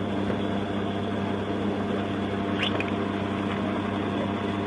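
Steady low mechanical hum with even overtones, and a single short click a little past halfway.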